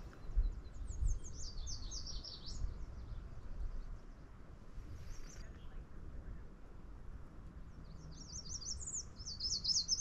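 A songbird singing two long phrases of rapid, high chirping notes, one about a second in and one near the end, with a brief call in between, over a low rumble.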